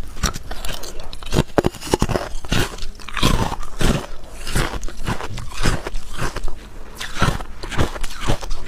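A person biting and chewing hard, clear ice close to the microphone: repeated sharp crunches and cracks, several a second.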